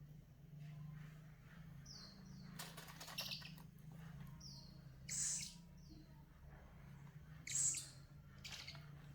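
Owl chick calling: short, high, falling chirps several times, and four harsh hissing rasps, the loudest about five seconds and seven and a half seconds in.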